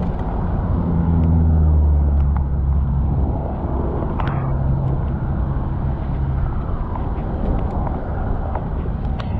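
City street traffic: a motor vehicle's engine hums close by, loudest about one to two seconds in, over a steady low road rumble, with another engine hum a few seconds later.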